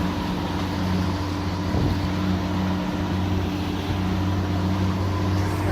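Motorboat engine running steadily, a low even hum over a constant rush of noise.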